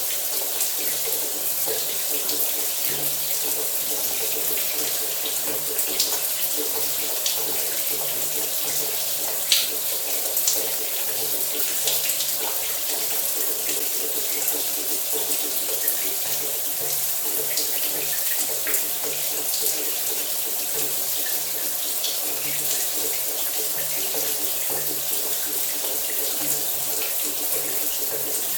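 Shower running steadily: a constant hiss of water spray falling, with small splashes and droplet ticks scattered through it.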